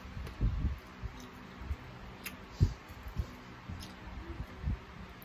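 Close-up chewing of chicken feet: irregular soft crunching thumps and small clicks, the loudest about two and a half seconds in.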